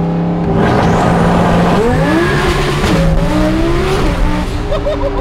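Twin-turbo Lamborghini engine accelerating hard, heard from inside the cabin. A rush of noise builds, then the engine note climbs in pitch, drops at a gear change and climbs again.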